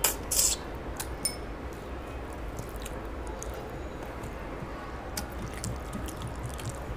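Wet eating sounds of a person eating fish curry and rice by hand: chewing and lip smacks, with a few sharp smacks in the first second and a half and softer ones after, and fingers mixing the rice on the tray. A steady low hum runs underneath.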